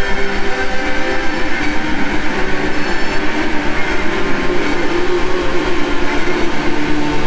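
Experimental ambient music: layered sustained drone tones, some wavering and gliding in pitch, over a fast, even low pulsing rhythm.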